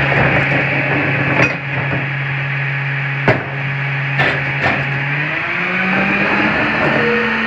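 CNG Autocar Xpeditor garbage truck with a McNeilus rear loader body working: its engine holds a steady hum, broken by four sharp metal clanks and bangs. About five seconds in, the engine note steps up and climbs.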